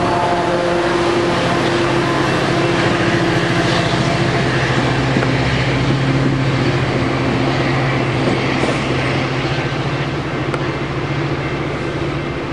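Coaster commuter train with an F40PHM-2C diesel locomotive pulling out of the station. A steady diesel engine drone runs over the rumble of bilevel cars rolling past, easing off slightly near the end as the train draws away.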